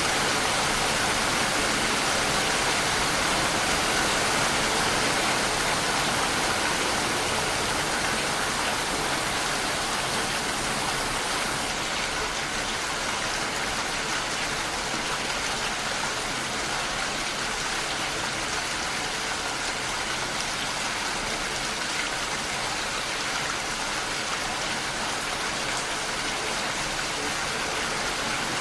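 Steady rain falling, an even hiss of water with no break; the highest part of the hiss drops away about twelve seconds in.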